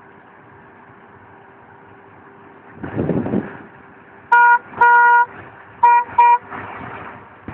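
Tractor horn honked four times, two short beeps and then two quicker ones, over the steady hum of the running tractor.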